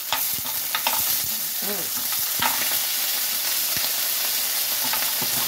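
Frozen shrimp dropped one at a time into a hot pan of olive oil, sizzling steadily with sharp crackles and pops as each piece hits the oil.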